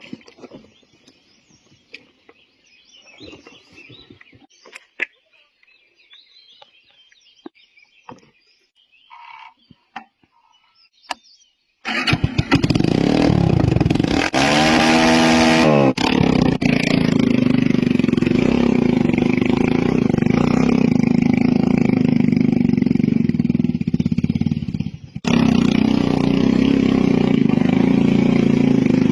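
Scattered faint clicks and knocks, then about twelve seconds in a motorcycle engine comes in loud, its pitch sweeping up and back down as it revs, and then runs loud and steady. It drops away briefly about 25 seconds in and picks up again.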